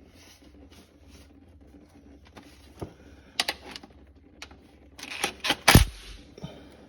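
Hand tools clicking and knocking on metal while the transmission pan bolts are worked loose: scattered sharp clicks, a quick cluster of them about five seconds in, and the loudest knock near six seconds.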